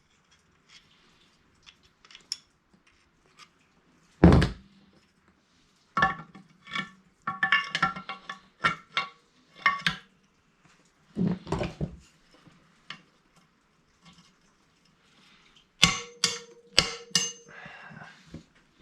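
Metal engine parts clinking and knocking as they are handled and fitted back together: scattered clicks, a heavy thump about four seconds in, then bursts of ringing metallic clinks and a quick run of sharp clicks near the end.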